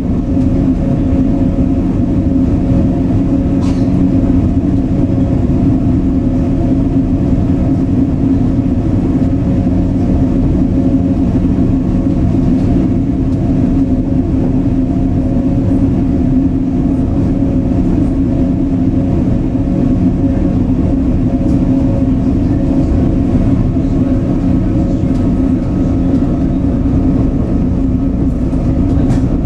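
Onboard running noise of an SŽ series 510 Stadler FLIRT electric multiple unit, heard from inside the passenger car: a steady rumble of wheels on rail with a constant hum.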